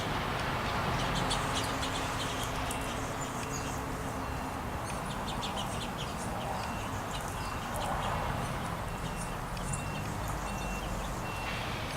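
Small wild birds calling at a feeder: scattered short, high chirps with a run of brief, evenly pitched notes repeated about once a second, over a steady low background rumble.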